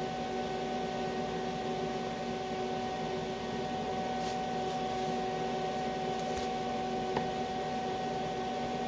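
TIG arc welding aluminum on DC electrode positive with argon shielding: a steady hum and hiss from the arc and welder, with a few faint crackles a little past the middle.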